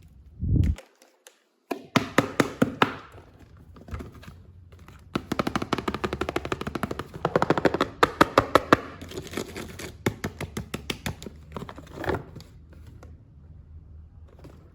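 Plastic toy packaging crackling and clicking in rapid runs as it is handled and opened, with a brief break near the start.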